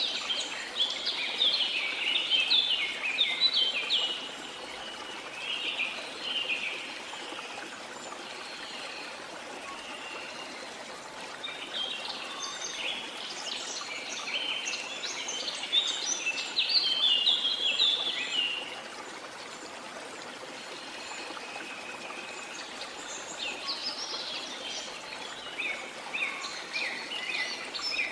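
Several birds chirping and singing over a steady rush of flowing water. The birdsong comes in three busy spells: at the start, through the middle, and again near the end, with the water alone between them.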